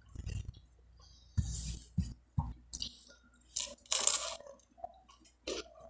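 Close-up crunching and chewing of crisp toasted French bread made in a sandwich press, bitten and chewed in a string of separate irregular crunches, the loudest about four seconds in.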